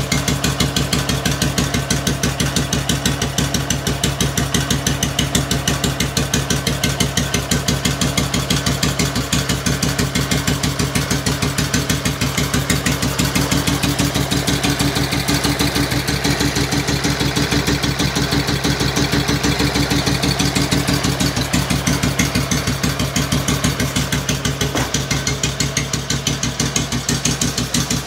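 BMW R25 single-cylinder four-stroke engine idling steadily with an even beat of firing pulses, on a test run after a full rebuild and fresh adjustment of the points and valves.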